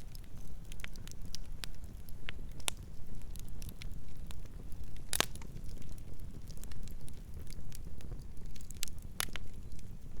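Campfire burning: a steady low rumble of flames with scattered sharp crackles and pops of burning wood, the loudest pop about halfway through and another near the end.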